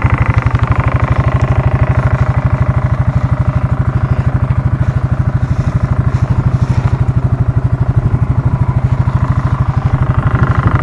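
A 1992 Suzuki four-wheeler's engine idling steadily, with a rapid, even putter.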